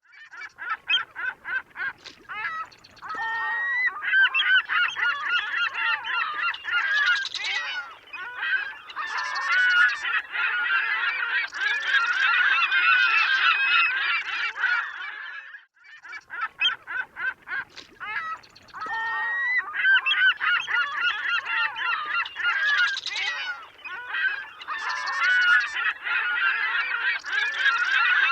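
A flock of seagulls calling, with many overlapping squawks and cries. The calling breaks off for a moment about 16 seconds in and then starts again.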